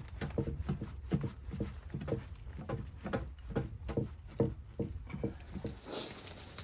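A run of soft, quick thuds, two to three a second, that stops about five seconds in, giving way to a steady hiss.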